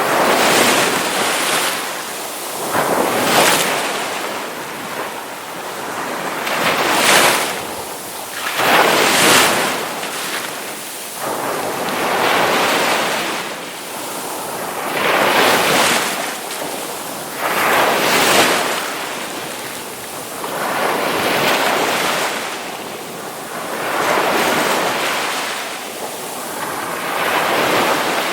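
Ocean waves breaking on a shore, the surf swelling and washing back again and again, a new surge every two to three seconds.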